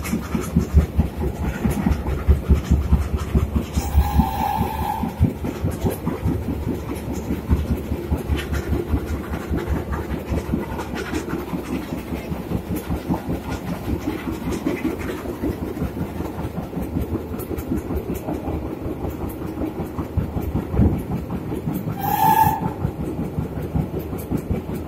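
Old passenger carriage of a steam-hauled train running at speed, its wheels clattering over the rail joints in a fast, even rhythm. Two short whistles sound, about four seconds in and again near the end.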